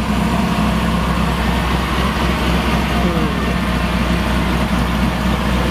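Turbocharged LS1 V8 idling steadily with a deep, even note.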